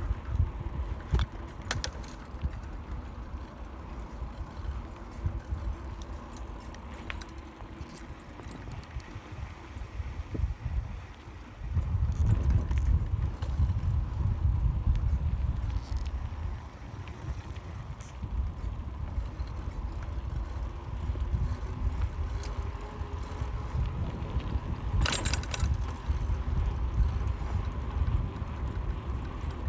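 Bicycle ride: a low rumble of wind on the microphone and the road, getting louder about twelve seconds in, with a short burst of clicks near the end.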